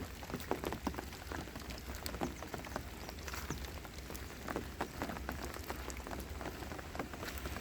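Light rain: scattered raindrops pattering irregularly, over a faint steady low hum.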